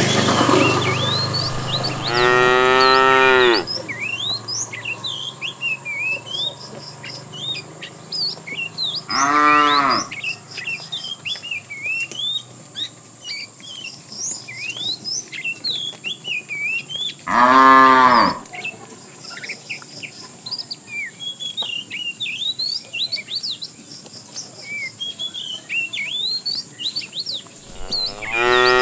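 Cattle mooing: three long moos several seconds apart, with a fourth starting near the end. Small birds chirp continuously in the background.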